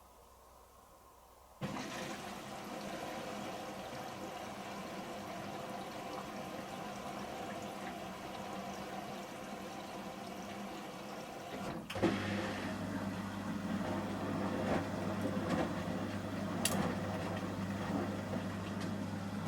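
Samsung Series 5+ washing machine's water inlet opens suddenly about a second and a half in, and water rushes steadily into the machine. About twelve seconds in, a steady motor hum starts under the water noise as the Ecobubble detergent stage begins.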